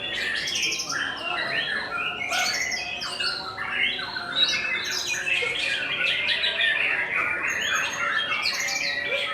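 Many songbirds singing over one another at once: a dense, unbroken stream of rapid chirps, trills and squawks.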